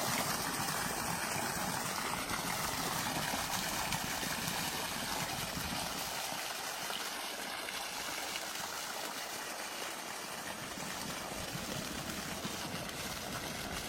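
Steady flowing water, like a stream running.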